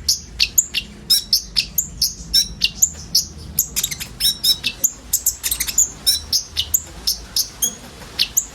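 A group of sunbirds (konin) chirping: a fast, unbroken run of short, sharp, high chirps, several a second, from more than one bird.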